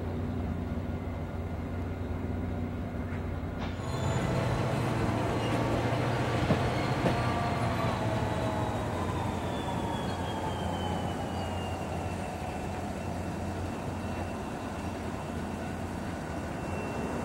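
Diesel locomotives idling with a steady low hum. About four seconds in the sound switches abruptly to a MARC commuter train moving past at low speed, its coaches rumbling on the rails, with a thin whine that slides slowly down in pitch.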